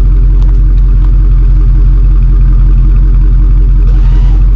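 A vehicle engine running steadily at idle, loud and low, with a short hiss about four seconds in.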